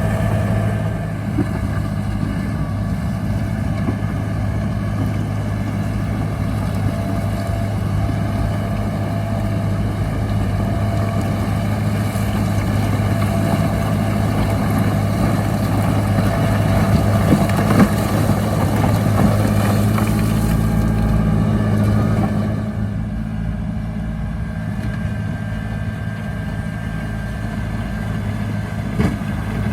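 Heavy diesel engine of earthmoving machinery running steadily under load, with a rougher, noisier stretch through the middle that eases off about two-thirds of the way through.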